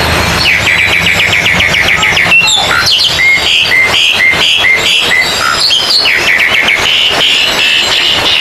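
Several oriental magpie-robins (kacer) singing loudly over one another, a dense tangle of whistles and chirps with fast runs of repeated notes, the kind of competitive song of a songbird contest.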